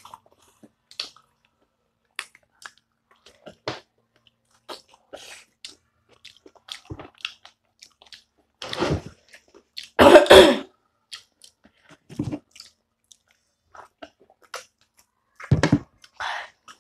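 Close-up chewing and lip-smacking of spicy chicken feet, with small wet clicks throughout. A loud double burst of breath about ten seconds in and another near the end, like coughing from the chilli heat.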